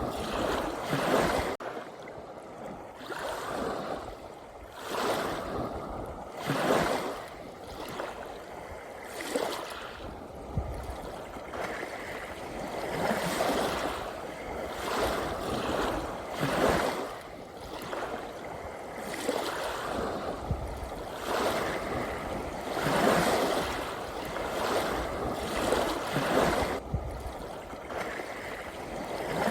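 Ocean waves washing in, with a swell of rushing water every few seconds over a steady background wash.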